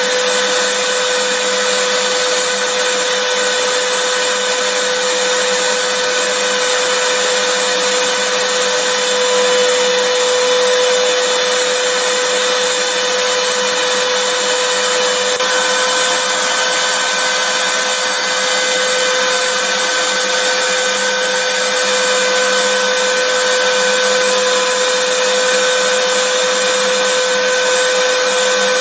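Vacuum cleaner motor running steadily: a constant rushing of air with a steady whine.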